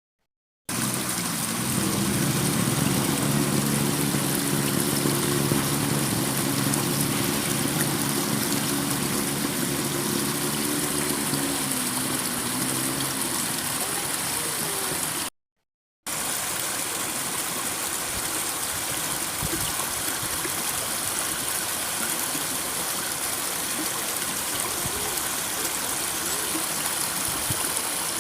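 Water rushing steadily in a stream. Through the first half a low, steady hum of several tones sits under the water. The sound breaks off for under a second about halfway through, then the water goes on alone.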